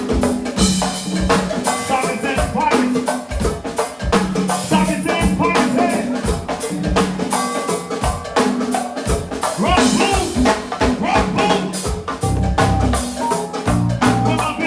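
Live band music, with drum kit and percussion keeping a steady, busy beat and singing over it.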